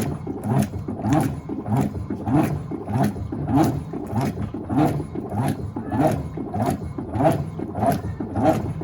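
Electrolux LTA15 Turbo Acqua Jet top-loading washing machine agitating a load: the agitator swishing back and forth through water and clothes in an even rhythm, roughly three strokes every two seconds.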